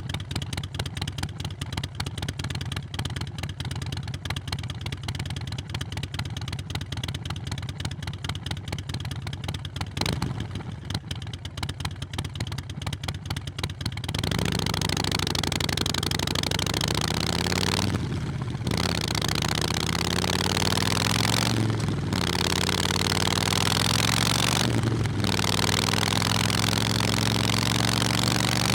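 Harley-Davidson Nightster Sportster 1200's air-cooled V-twin idling with an uneven, pulsing beat, blipped briefly partway through. It then pulls away and accelerates, louder, its pitch climbing and dropping back three times as it shifts up through the gears.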